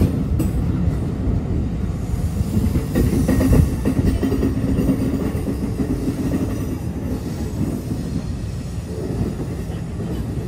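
Diesel-hauled NJ Transit commuter train of bilevel coaches rolling past over a grade crossing and pulling away, its wheels running over the rails with a steady low rumble that eases slightly as the cab car recedes.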